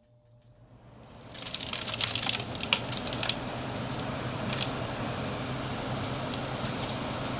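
Window air conditioner's fan motor starting up on fan-only mode, spinning up over about a second and a half with a low hum, with a spatter of sharp ticks and rattles as it comes up to speed, then running steadily.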